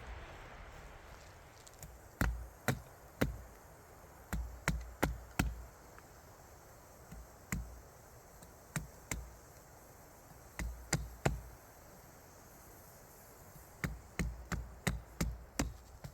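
Sharp knocks of a tool striking wood, in irregular groups of two to six blows with pauses between.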